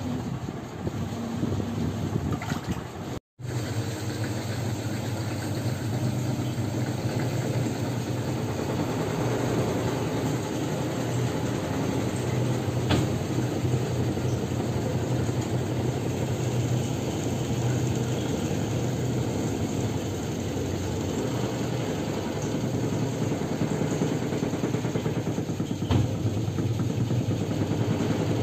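Whirlpool washing machine running a wash cycle, a steady motor hum, briefly cutting out about three seconds in; the machine is working normally again after its control board repair.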